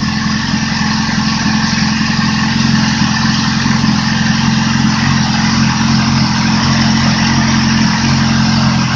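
2008 Yamaha R6's inline-four engine idling steadily while hot, just after a restart.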